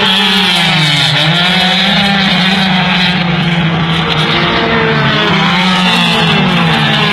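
Racing car engines running hard at full throttle, loud throughout. The pitch drops sharply about a second in, as at a gear change or lift, then climbs again and dips once more near the end.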